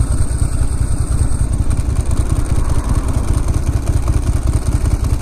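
Ducati Monster S2R 1000's air-cooled L-twin engine running as the motorcycle is ridden, a steady low rumble.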